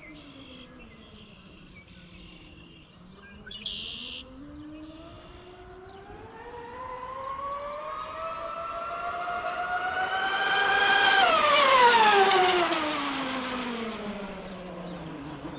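Twin electric motors of an Oxidean Marine Animal Twin RC catamaran whining at speed on a high-speed run. The whine climbs steadily in pitch and loudness to a peak about eleven seconds in, then falls in pitch and fades as the boat comes off the throttle.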